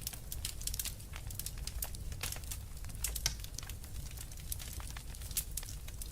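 Wood fire crackling: rapid irregular sharp pops and snaps, several a second, one louder pop about three seconds in, over a low steady rumble.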